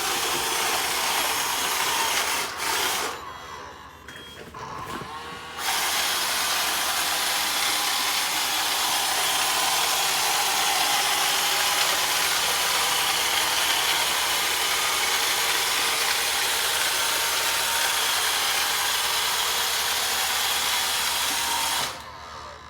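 iRobot Roomba Discovery 4210 robot vacuum running, its vacuum and brush motors making a steady whirring hum. It drops away about three seconds in, starts again near six seconds, and cuts off abruptly near the end.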